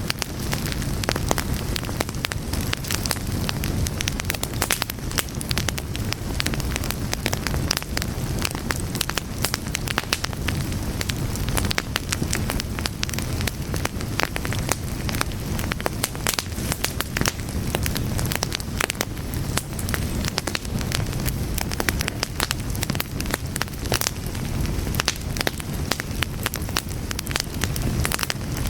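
A fire burning steadily, with dense, irregular crackles and pops over a constant low rush of flame.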